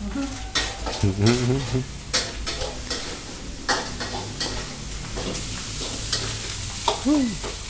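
Fried rice with chicken being stir-fried: sizzling in hot oil, with a metal spatula repeatedly scraping and clanking against the pan.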